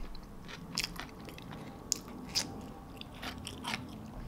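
Close-up chewing of a mouthful of sloppy joe, soft bun and saucy ground meat, with the mouth closed: a low wet murmur broken by scattered sharp mouth clicks and smacks.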